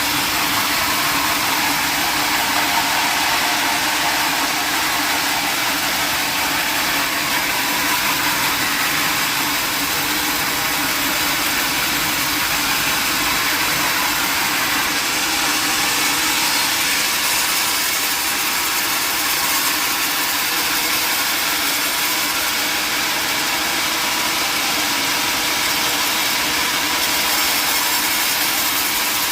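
Sawmill machinery running, a steady, unbroken mechanical drone with a constant hum and a hiss over it.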